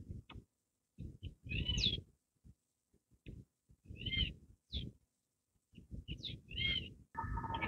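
A bird calling repeatedly, a short arched call about every two to three seconds, each call coming with a burst of low rumbling noise. Near the end a steady hum of several tones begins.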